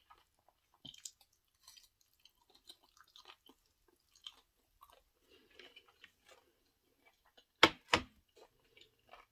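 Close-miked chewing of sushi, with wet mouth clicks and soft smacks. Near the end come two sharp knocks in quick succession, the loudest sounds.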